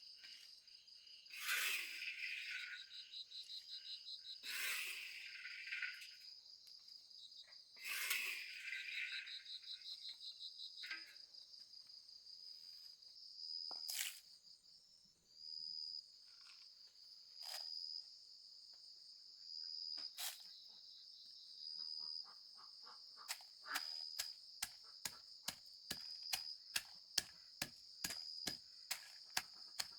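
Insects, crickets or similar, trilling in a steady high pulsing chirr. Over it come a few rustling bursts early on, then sharp clicks that come faster and faster through the last several seconds.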